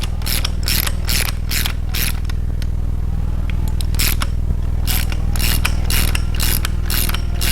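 Ratchet wrench clicking in short strokes, about three clicks a second with a pause in the middle, as the rocker arm nuts on a small-block Chevy 350 are run down to take the slack out of the pushrods.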